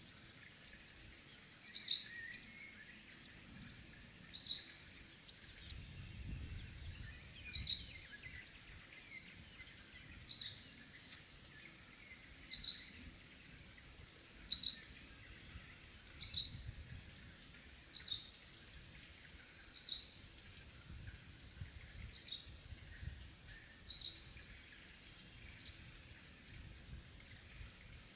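A bird calling over and over: a short, high call repeated about every two seconds, a dozen times, over a faint steady high hiss.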